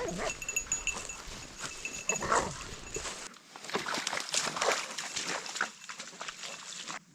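A dog whining and yipping, with a short whine about two seconds in, followed by a few seconds of footsteps and rustling through brush that cut off suddenly near the end.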